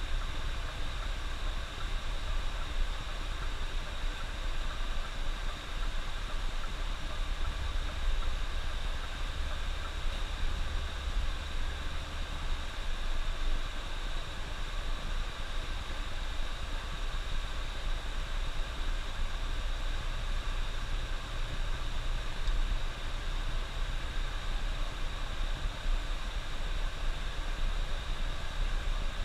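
Coach bus on the highway, heard from inside: steady low engine and road rumble under an even hiss, with no change throughout.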